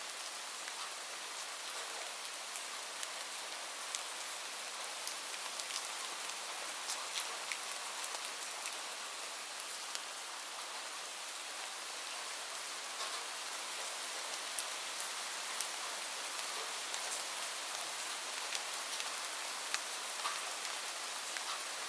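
Steady rain falling, a constant hiss with many individual drops pattering on a surface.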